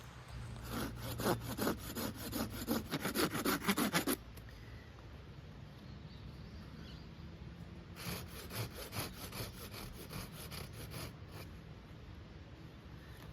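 Rhythmic rasping, scraping strokes in two bouts of a few seconds each, with a pause in between.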